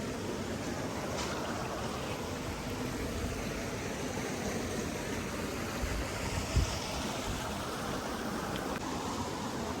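Steady rushing of a stream's running water, with a brief low thump about two-thirds of the way through.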